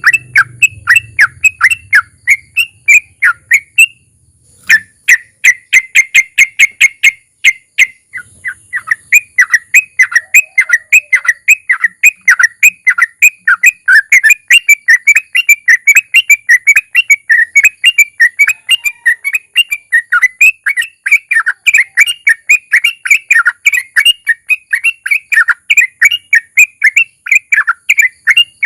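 Sooty-headed bulbul (trucukan) singing a long 'ropel': fast runs of short whistled notes, about four to five a second, broken twice in the first third and then unbroken to the end. A faint steady high hiss lies under it.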